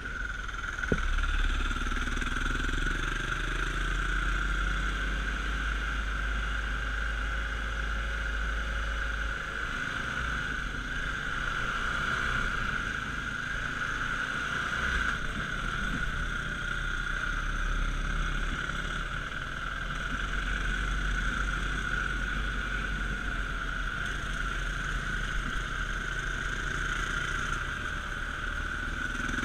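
Dirt bike engine running steadily while riding, with a constant low rumble and no big changes in revs.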